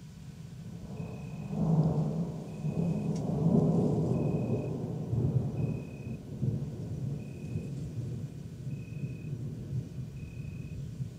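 Thunder from a supercell storm: a deep rumble that builds about a second in, swells twice, then slowly rolls away.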